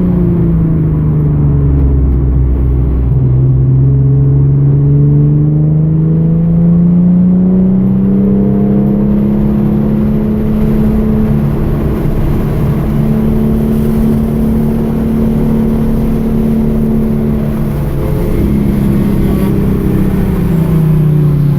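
2013 Hyundai Genesis Coupe's 3.8-litre V6 running hard around a race track, its note falling at the start as the car slows, then climbing for several seconds, holding, and rising and falling again before it drops near the end.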